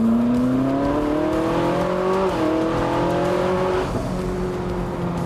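Ferrari 458 Spider's 4.5-litre naturally aspirated V8 accelerating hard, its pitch climbing, then dropping sharply at an upshift about two seconds in and climbing again until it levels off near the end.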